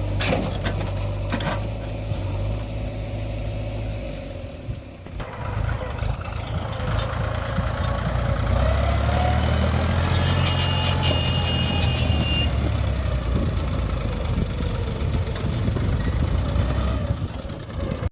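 Heavy diesel engine of a working machine running steadily; the sound dips briefly about five seconds in, then comes back louder and deeper a few seconds later.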